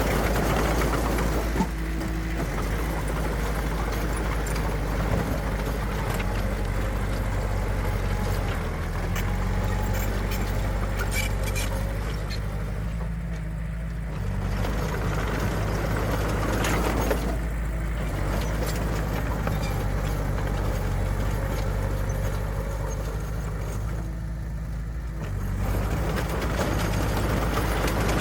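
Heavy diesel engine of earthmoving machinery running steadily, its low drone shifting in pitch a few times as the load or throttle changes.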